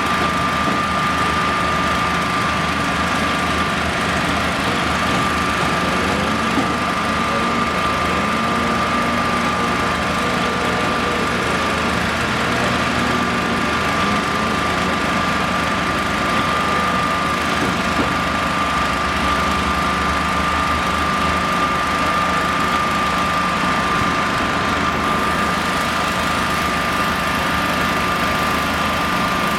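Engine of construction machinery running steadily, with a constant high whine over a low hum.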